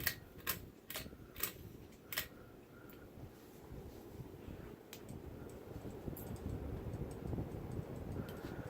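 Harbor Breeze Tighman ceiling fan speeding up to high, its low rush of moving air growing steadily louder. A handful of sharp clicks in the first two seconds.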